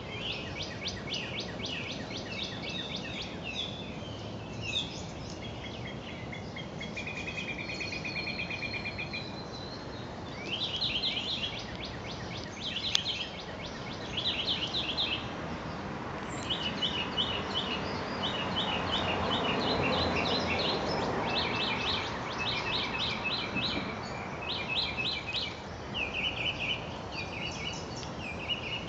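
Songbirds chirping and singing in quick runs of repeated short notes and trills, over a steady outdoor background hiss; a soft rushing noise swells and fades about two-thirds of the way through.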